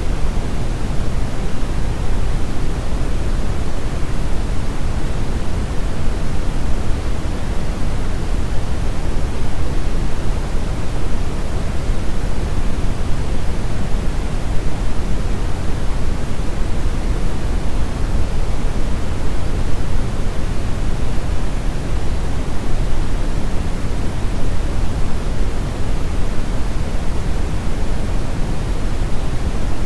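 Brown noise: a steady, deep rushing hiss, heaviest in the bass and falling off toward the treble, with no changes.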